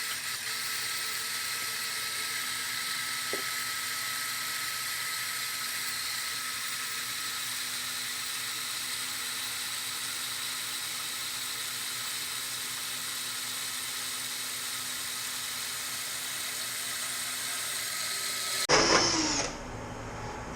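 Motor-driven grain mill running steadily as it cracks a hopper load of 2-row malt, a continuous high whine that cuts off abruptly near the end.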